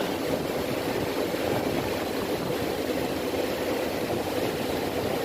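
A steady mechanical drone from a running motor, even throughout with no revs or knocks.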